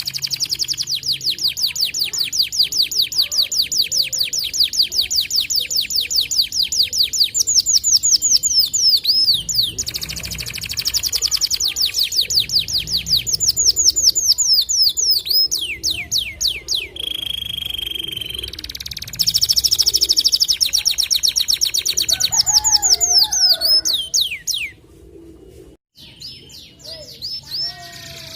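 Domestic canary (white canary) singing long, rapid trills of quickly repeated high, downward-sweeping notes, with a steady held whistle about two-thirds of the way through; the song drops off abruptly near the end.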